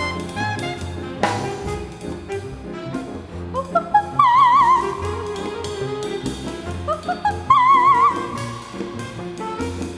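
A live Latin dance band playing a mambo with brass and drum kit, with a cymbal crash about a second in. Twice, about four and seven and a half seconds in, a very high wordless soprano voice swoops up and holds a wide, wavering trill.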